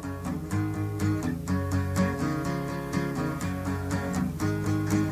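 Band playing an instrumental stretch between sung lines, with a guitar strummed in a steady rhythm over sustained chords.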